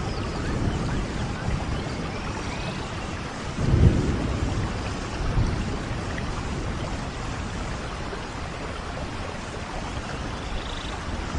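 Steady rain falling, with a short rumble of thunder about four seconds in.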